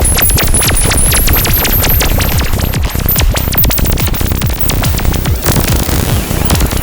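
Analog modular synthesizer effects: a dense glitchy run of rapid clicks and stutters over a pulsing low end, with short chirping sweeps up high, turning into a noisier wash about five and a half seconds in.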